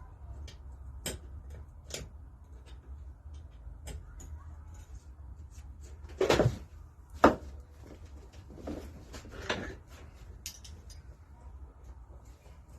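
Scattered clicks and knocks of tools and metal parts being handled while a 1933 Lister D stationary engine is dismantled, with a louder knock just after seven seconds in.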